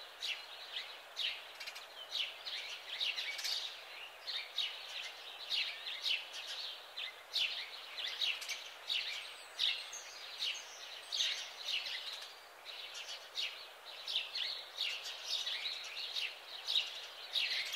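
Small songbirds chirping busily, a steady run of short, quick, overlapping chirps over faint background hiss.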